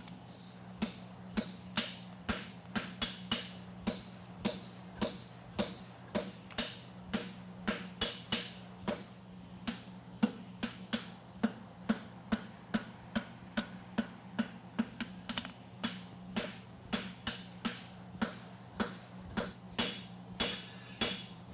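Blacksmith's hammer striking hot horseshoe steel on an anvil in a steady run of about two to three blows a second, over a steady low hum.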